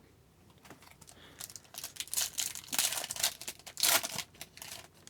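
Upper Deck Series 1 hockey card pack wrapper being torn open and crinkled: a run of irregular crackling rustles starting about a second in, loudest near the end.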